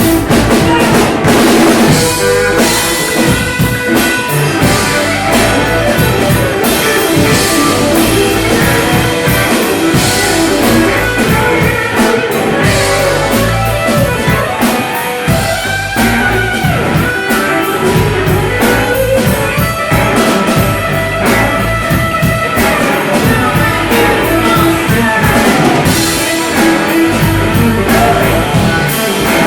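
Blues-rock music with electric guitar and a drum kit keeping a steady beat.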